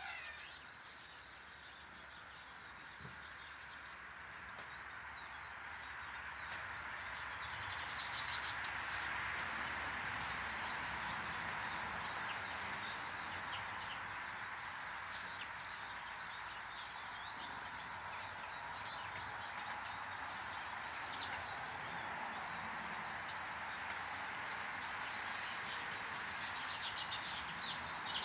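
Small birds chirping around a garden bird table, with short high calls scattered through and a few sharper ones in the second half, over a steady rushing background noise that swells over the first few seconds.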